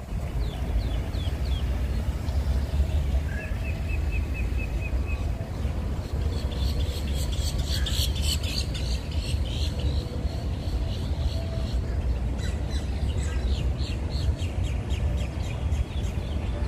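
Small birds chirping: a few quick falling chirps, a short even trill of repeated notes, then a busy run of rapid chirps from about six seconds in. A steady low rumble sits underneath.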